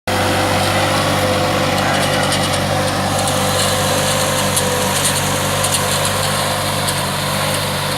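New Holland 3630 tractor's diesel engine running steadily, pulling a three-bottom mouldboard plough.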